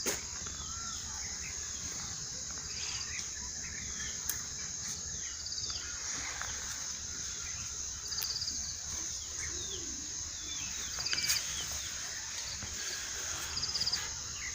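Natural outdoor ambience of insects and birds: a steady high insect drone, a short pulsed trill repeating every two to three seconds, and scattered short bird chirps.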